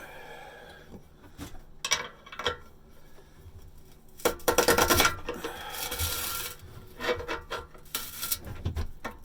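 Rusted steel exhaust pipe grating and scraping as it is twisted inside the muffler pipe with a pry bar and pliers. A few light metal clinks come first, then louder stretches of scraping from about four seconds in.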